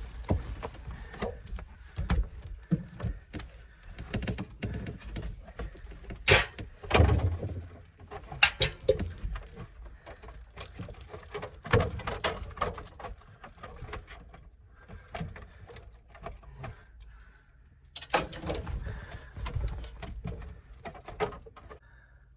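Irregular knocks, clicks and clatter of hands working on HVAC drain equipment, with no steady motor running; the louder knocks come at about six to seven seconds, around twelve seconds and around eighteen seconds.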